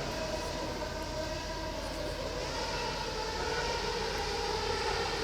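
Formula One car engine running at high revs, a steady whine whose pitch drifts slowly.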